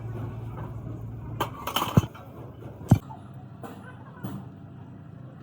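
Metal knocks and clinks in a workshop: a cluster of sharp hits, the loudest about two and three seconds in, then a few lighter taps, over a low machine hum that drops away about a second and a half in.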